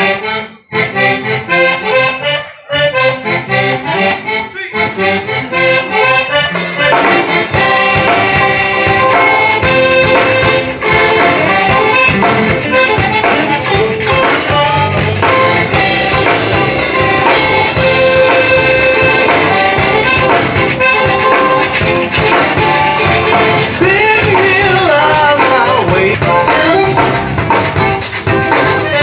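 Zydeco band playing live, led by accordion. The first six seconds are clipped, rhythmic chords, then the music turns fuller and steadier.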